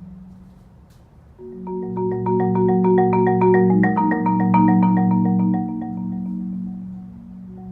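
Solo marimba. A low chord fades to a brief lull, then about a second and a half in the marimba comes back with sustained low notes under a fast run of repeated higher notes. It eases off near the end, then picks up again.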